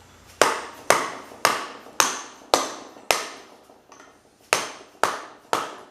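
Hammer tapping a bearing driver to drive a new 203 ball bearing onto an electric motor's rotor shaft: nine sharp metallic taps, about two a second, with a pause of about a second and a half in the middle.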